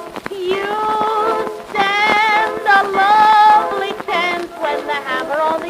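A woman singing a sustained, wavering vocal line with accompaniment, from a 1908 acoustic phonograph recording.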